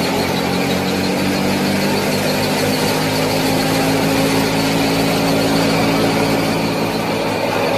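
Small motor of a DIY miniature threshing machine running steadily: an even hum with a fast rhythmic pulsing underneath.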